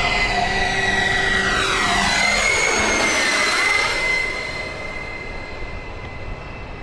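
Large radio-controlled model airplane making a low, fast pass: its steady engine sound sweeps as it goes by about three and a half seconds in, then drops away as it flies off.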